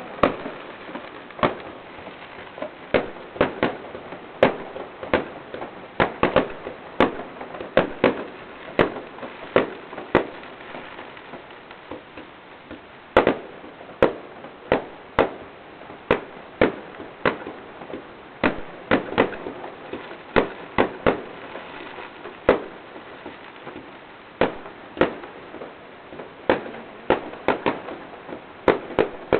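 Aerial fireworks bursting: an irregular run of sharp bangs, often one or two a second, with crackling between them and a short lull near the middle.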